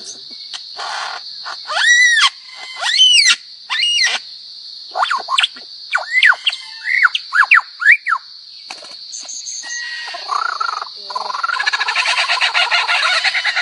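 A bird calling: three loud rising-and-falling whistles about a second apart, then a quick run of shorter whistles, and a fast buzzy rattle near the end, over a steady high hiss.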